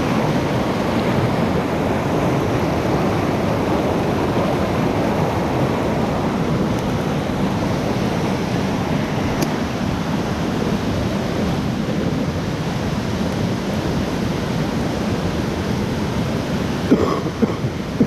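Steady rain falling, an even rushing hiss without let-up. A few short knocks sound near the end.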